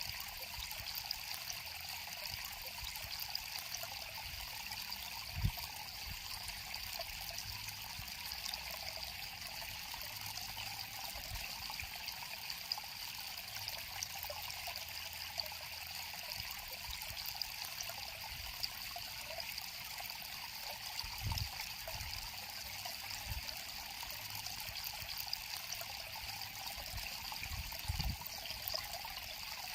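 Shallow river water flowing and trickling steadily, with a few brief low thumps along the way.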